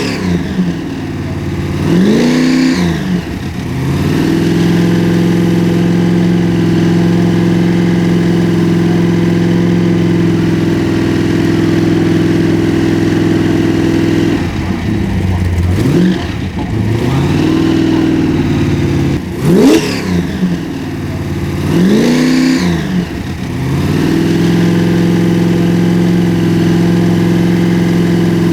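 A modified car's engine revved and held at a steady high speed for long stretches. The revs drop and climb back several times: near the start, and again three times in quick succession a little past the middle.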